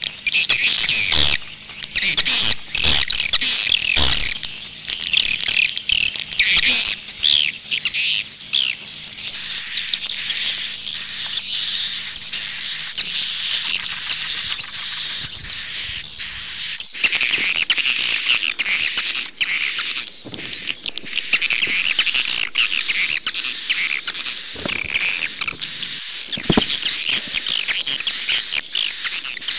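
Swiftlet calls: a dense, continuous chatter of rapid high chirps and twitters, with clicks throughout. It is busier for the first nine seconds or so, then settles into fast repeated chirps. It is a 'jaguar'-style swiftlet call recording, the kind played to lure swiftlets into nesting houses.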